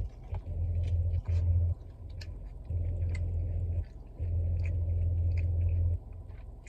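Close-up chewing and small wet mouth clicks of someone eating chicken wings, over a low hum that cuts in and out several times.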